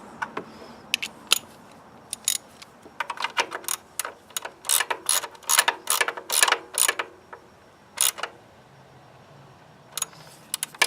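Socket ratchet clicking in short, irregular runs as a new PCV valve is tightened into place, with brief pauses between strokes.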